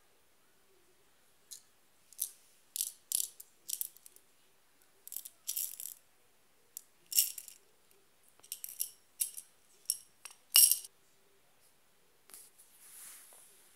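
Seed beads rattling in a series of short, sharp bursts, the loudest about ten seconds in, followed by a softer hiss.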